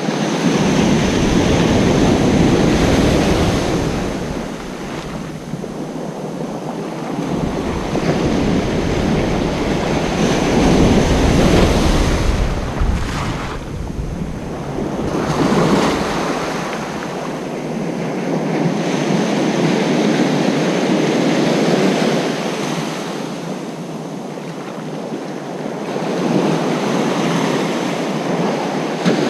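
Ocean surf breaking and washing up a beach, swelling and easing every few seconds. Wind buffets the microphone with a low rumble through roughly the first half.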